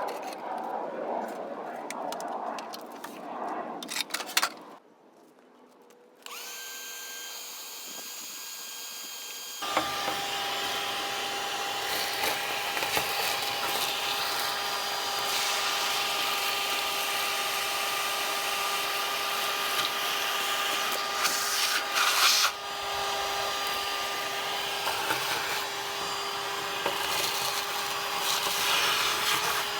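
An electric power tool running steadily with a whine, starting about ten seconds in after some clatter, a brief pause and a shorter whine.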